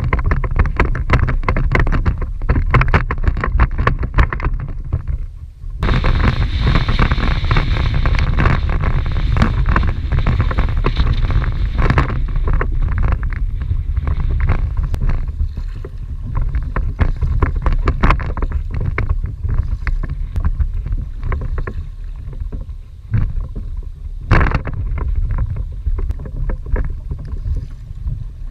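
Strong southeasterly wind buffeting the microphone on a kayak, with choppy water slapping and splashing against the hull. Between about six and twelve seconds in, a louder rushing hiss of water builds, then eases.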